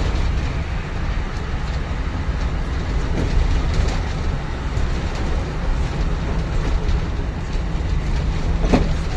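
City bus interior: engine and road rumble with the rattle of the cabin while the bus is under way. A short pitched sound comes near the end.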